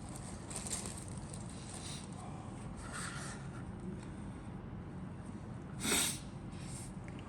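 Soft handling rustles from the model kit's contents being moved about, over a steady low hum, with one louder, brief rustle about six seconds in.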